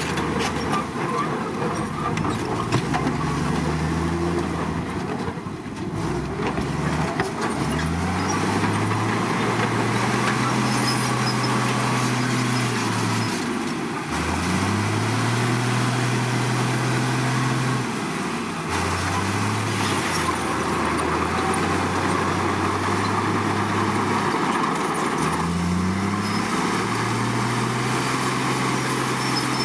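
Komatsu D53 bulldozer's diesel engine revving up, holding high for a few seconds and dropping back, about five times over.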